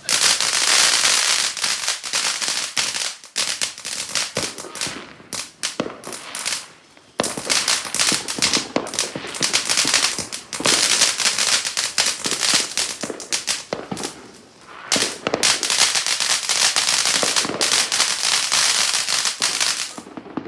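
Fireworks crackling: a dense, rapid run of sharp pops and cracks, loud, coming in three long waves that drop away briefly about seven seconds in and again about fourteen seconds in.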